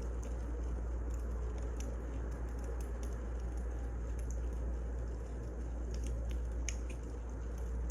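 Wood fire crackling: irregular small pops and snaps over a steady low rumble of burning logs.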